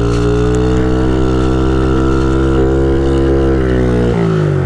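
Honda CRF50 pit bike's small single-cylinder four-stroke engine held at high revs, its pitch fairly steady, then dropping sharply as the throttle closes about four seconds in.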